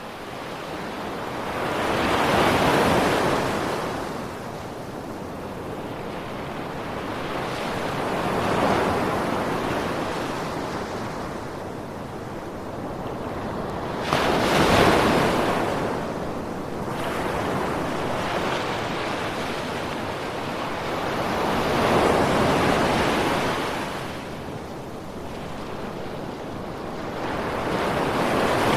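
Ocean surf: waves breaking and washing in, in slow swelling surges about every six or seven seconds, the sharpest and loudest crash about halfway through.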